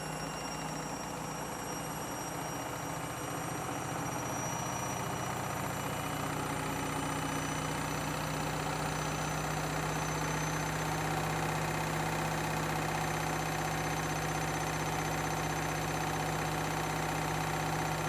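Candy washing machine spinning, its motor hum building over several seconds and then holding at a steady pitch.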